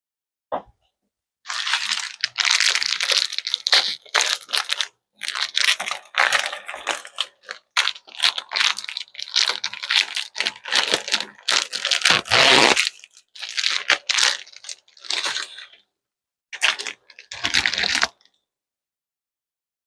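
Plastic spaghetti packets being torn open and handled, crinkling and tearing in irregular bursts that stop about two seconds before the end.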